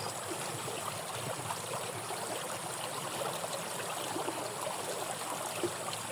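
Water flowing steadily through a drainage ditch swollen by rain.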